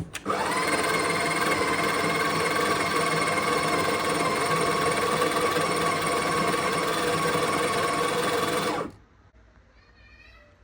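Electric coffee grinder motor grinding beans: a couple of clicks, then a loud steady whirring grind that settles in pitch as the motor spins up, runs about nine seconds and stops abruptly.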